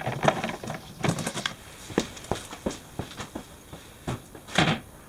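Objects being handled: a string of irregular clicks and knocks, with a louder rustling scrape about four and a half seconds in.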